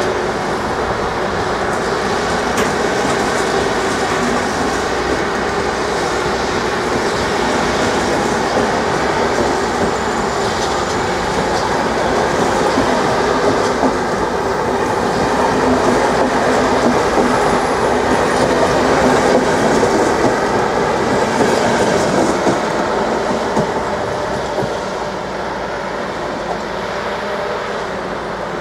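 Intercity train's passenger coaches rolling past at low speed as it pulls out of the station. The rolling noise builds to its loudest in the middle and fades away as the last coach goes by.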